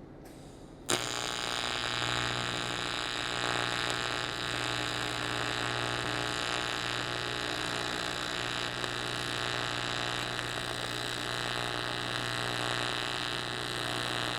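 An electric welding arc on aluminium, struck with a sharp crack about a second in, then buzzing steadily as a weld is laid on the fuel tank.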